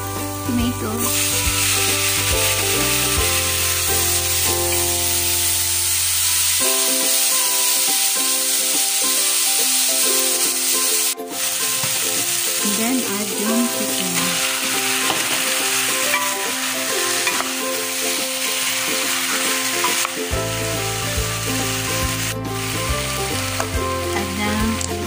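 Chopped onion, garlic, tomato and chicken sizzling steadily as they sauté in hot oil in a pot, stirred with a wooden spoon. Background music plays underneath, and there are two sharp clicks at edits, one about midway and one near the end.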